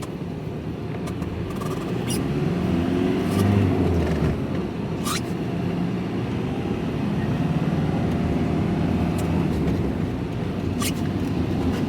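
Vehicle engine and road noise heard from inside the cab while driving. The engine note rises and falls with speed, and there are a few sharp clicks or rattles.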